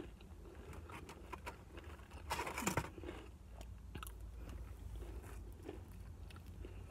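A person chewing and biting crunchy fried fast food close to the microphone, with small clicks throughout and one louder crunch about two and a half seconds in.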